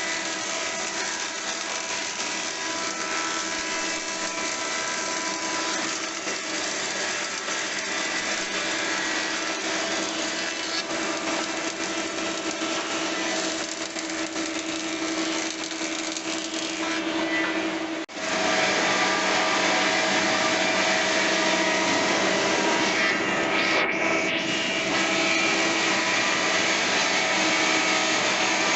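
QUADRO industrial double-sided thickness planer running and planing wood: a steady, loud machine noise with many steady tones. It breaks off for an instant about 18 seconds in and comes back louder.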